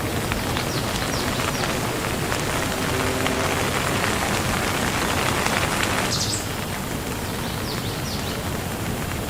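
Steady rain falling, a dense even hiss of drops that is heavier in the middle and eases slightly about six seconds in.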